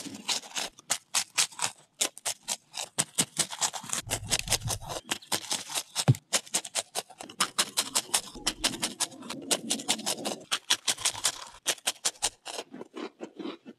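Close-up crunching of grilled salty chive biscuits being bitten and chewed: a fast run of crisp crunches, several a second.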